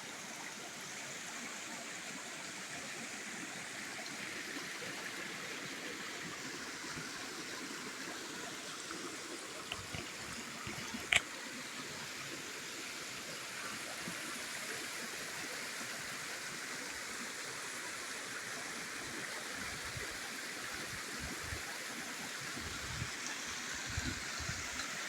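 Clear stream flowing steadily, an even rush of water. A single sharp click sounds about eleven seconds in, and a few low bumps come near the end.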